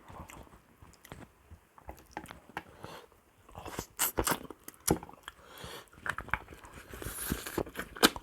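A person chewing and crunching food close to the microphone, with irregular sharp mouth clicks and smacks, a few of them loud.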